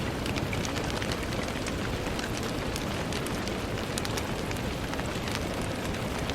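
Steady rain on a window, an even hiss dotted with many separate sharp drop ticks.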